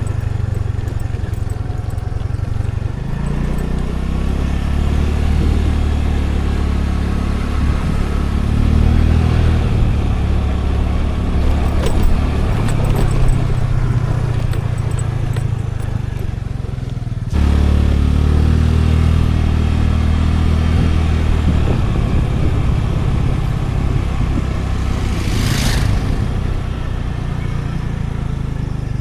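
A scooter's engine running on the move, its low note rising and falling with the throttle, over steady road and wind noise. The engine note jumps abruptly about two-thirds of the way through.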